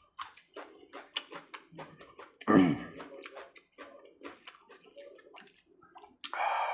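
Close-up wet chewing and lip-smacking of a mouthful of rice and egg curry eaten by hand: many short, rapid clicks, about three a second. A louder, brief mouth sound with a falling pitch comes about two and a half seconds in. A short wet squelch near the end comes as the hand mixes rice into the curry.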